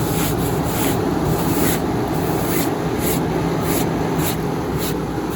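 Late-1980s Emerson Quiet Kool 10,000 BTU window air conditioner running on its highest fan setting, heard from the condenser side: a steady rush of the condenser fan over a low hum, with short hissing swishes recurring about twice a second.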